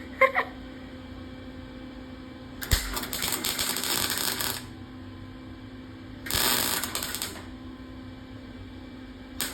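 Wire-feed (MIG) welder crackling in two bursts, about two seconds and then about one second long, as holes in the car's steel quarter panel are welded up with wire, with a third burst starting at the very end. A steady hum sits underneath.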